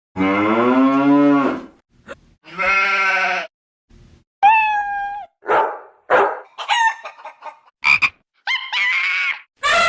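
A quick string of different animal calls, about eight in all, one after another with short gaps: cartoon animal sound effects coming from a boat character in place of speech. The first call, lasting about a second and a half, is the longest; most of the later ones are short.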